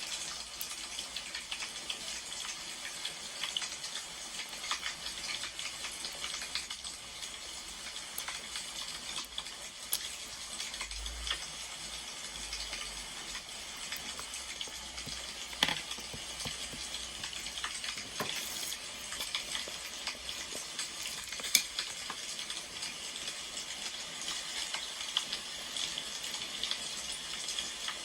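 Firewood burning with a steady crackle of small pops and ticks, and a couple of sharper pops about sixteen and twenty-one seconds in.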